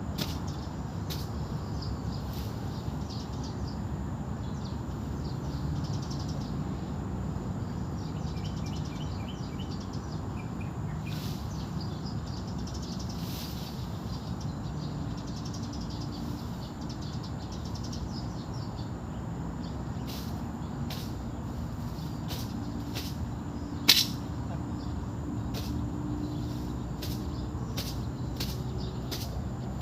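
Outdoor ambience with a steady low rumble, faint bird chirps and scattered short sharp clicks, one much louder about 24 seconds in.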